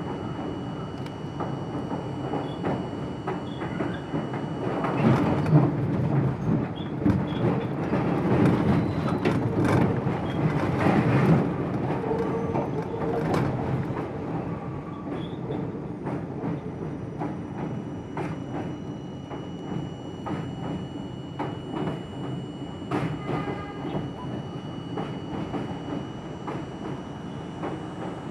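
R42 New York City subway car running along the track, its wheels clicking over rail joints. A louder stretch of wheel and track noise comes about five seconds in and eases off after about twelve seconds.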